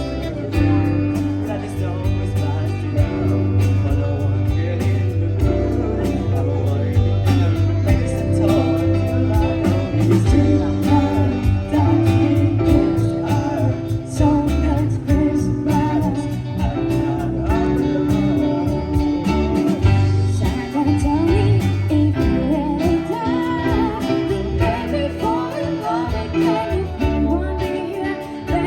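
Live pop band playing a song, with sung lead vocals over guitar, bass and drums.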